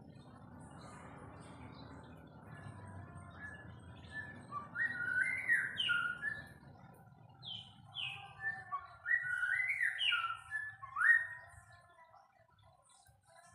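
White-rumped shama singing a run of loud, sliding whistled phrases that rise and fall, starting about four and a half seconds in and stopping near the end, over a faint low rumble in the first half.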